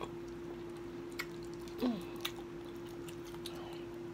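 A person chewing food, with a few sharp wet mouth clicks and a short falling tone about two seconds in, over a steady hum from a fan on low.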